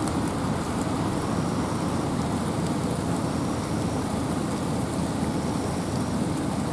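Steady wind and rain in a forest: an even, deep rushing noise with light ticks of drops over it.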